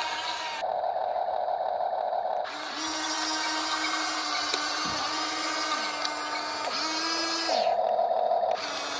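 HUINA 1/14 scale RC excavator's electric motors and gearboxes whining as it works, the pitch stepping and sliding down as functions start and stop. Twice, about half a second in and again near the end, a lower, rougher motor whine takes over for a second or two.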